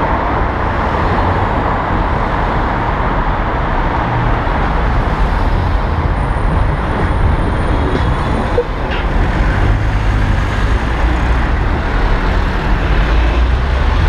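Steady road and traffic noise heard from a moving electric bike, a dense rumble with a strong low boom, dipping briefly a little past halfway.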